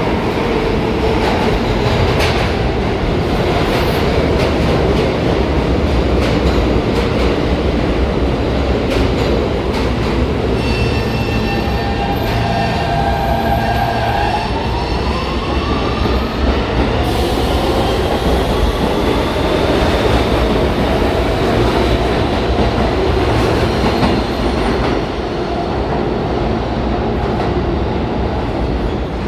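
New York City subway train running through the station, its wheels clattering over rail joints, with a motor whine that holds steady, then rises in pitch partway through as the train accelerates.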